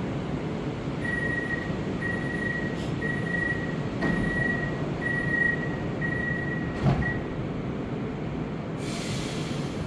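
Warsaw Metro train's door-closing warning: a high beep repeating about once a second for some six seconds, ending with a knock as the doors shut. A steady rumble runs underneath, and a short hiss comes near the end.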